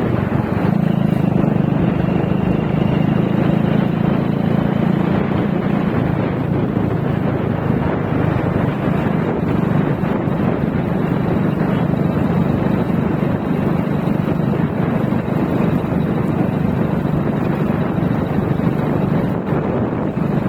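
Motorcycle engine running steadily while riding, with a hum that is a little stronger in the first few seconds, under wind noise buffeting the microphone.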